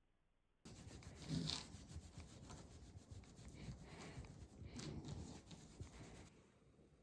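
Rubbing, rustling noise that starts suddenly, has two louder scrapes and stops shortly before the end.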